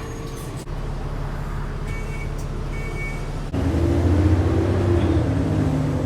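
Alexander Dennis Enviro 400 double-decker bus heard from inside: the engine runs low and steady, then about three and a half seconds in it gets louder as the bus pulls away, with a whine that rises and falls.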